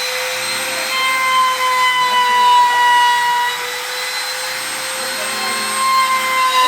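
An electric motor running continuously with a steady high whine, its pitch wavering slightly.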